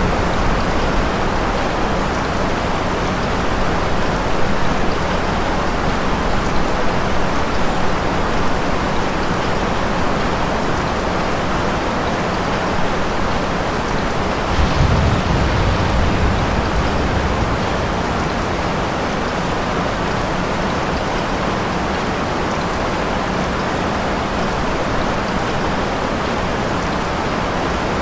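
Steady heavy rain falling, with low thunder rumbling at the start and again about halfway through.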